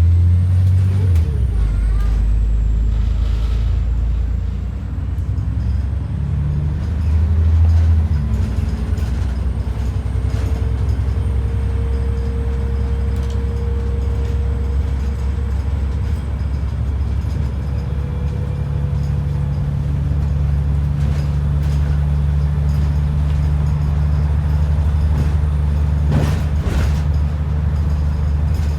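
ADL Enviro 400 double-decker bus heard from on board: a steady low engine drone, its note changing about two-thirds of the way through, with a short sharp knock near the end.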